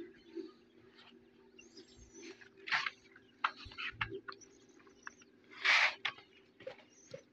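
Birds chirping in short scattered calls over a faint steady low hum, with a louder rushing burst about six seconds in.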